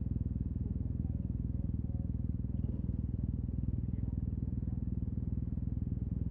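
Yamaha TMAX 560 maxi-scooter's parallel-twin engine through an Akrapovic carbon full-system exhaust, running at steady low revs with an even pulse.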